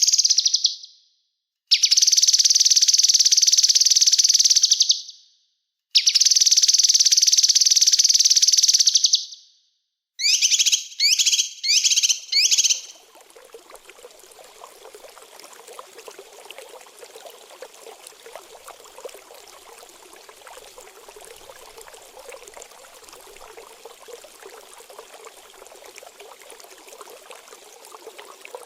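Small songbird calls: two long, rapid high trills of about three seconds each, then four short downward-sweeping notes. About halfway in the birds stop and steady trickling running water takes over, the water-therapy interlude of a bird-training track.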